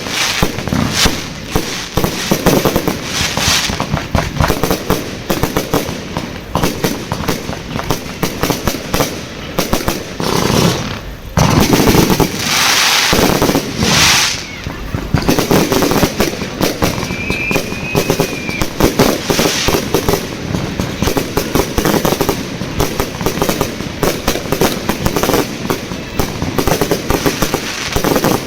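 Fireworks display: a constant rapid run of bangs and crackling shells. A heavier volley of loud explosions comes around the middle.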